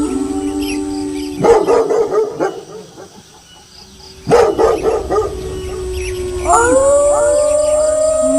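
Several wolves howling in chorus, the long held howls broken by two short bursts of barking and yipping, about a second and a half and four seconds in. Near the end a fresh round of howls starts together, each sliding up in pitch.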